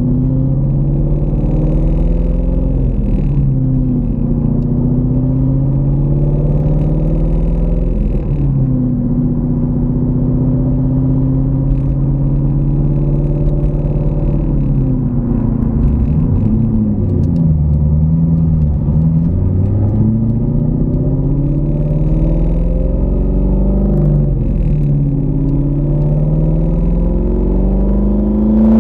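Car engine running under way, heard from inside the cabin. Its note climbs with speed and drops back at each gear change, several times, over a steady low road rumble.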